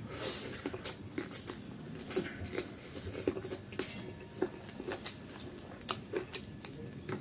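Close mouth sounds of eating chicken curry and rice by hand: chewing and lip-smacking in irregular wet clicks, several a second.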